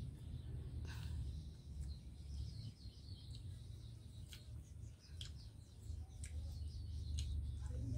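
Small birds chirping over a steady low rumble, with a few short sharp clicks scattered through.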